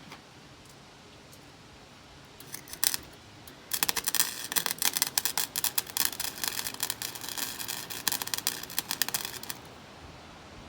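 Electric arc welder striking an arc with a couple of short sputters, then welding steadily with an irregular crackle for about six seconds before stopping, laying a bead over a crack in a steel distributor bracket.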